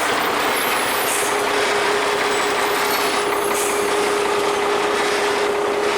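Heavy truck running on a steep mountain descent: a loud, steady rushing noise, joined about a second in by a steady whine.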